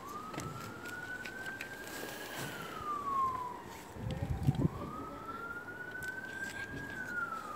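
An emergency-vehicle siren wailing in two slow rise-and-fall sweeps, with a low rumble about four and a half seconds in and scattered faint pops and clicks.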